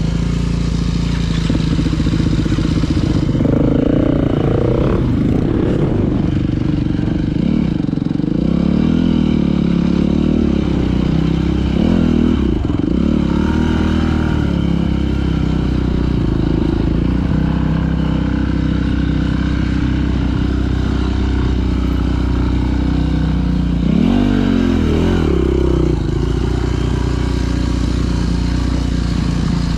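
Dirt bike engine running while being ridden, its revs rising and falling again and again as the throttle opens and closes, with a sharp rev swing about twenty-four seconds in.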